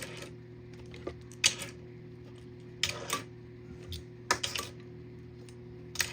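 Small die-cast metal toy cars being handled and set down, a scattered series of sharp clicks and clacks about every second or so.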